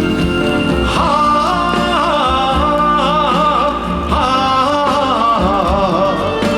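Live band playing a slow Korean trot blues ballad between sung lines, a lead melody wavering with wide vibrato over steady backing.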